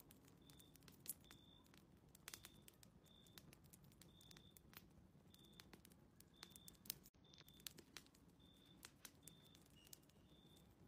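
Faint crackling of a wood fire in a fireplace, irregular sharp pops and snaps, with a short high chirp repeating about every three-quarters of a second.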